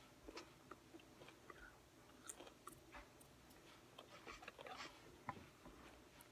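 Faint chewing of food, with small irregular mouth clicks and smacks.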